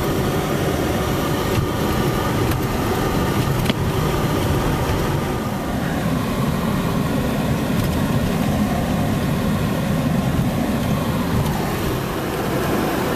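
A car driving, with a steady mix of engine and road noise.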